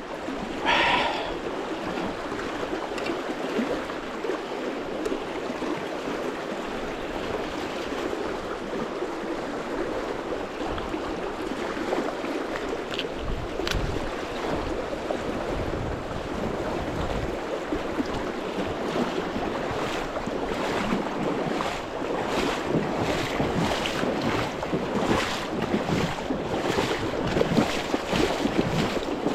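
Steady rushing of a fast river current, with a short loud burst about a second in and a run of brief bursts of noise in the last third.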